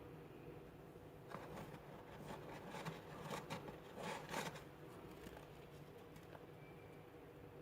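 Freezer frost being scraped and crunched: a cluster of crisp, scratchy crackles from about one to four and a half seconds in, then only a faint steady hum.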